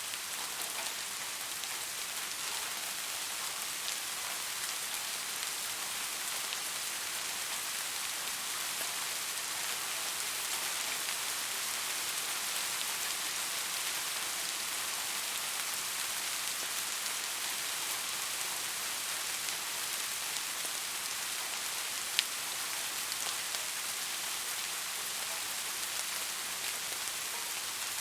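Steady rain falling: an even hiss of drops with fine ticks of single drops through it, and one sharper click a little over three-quarters of the way through.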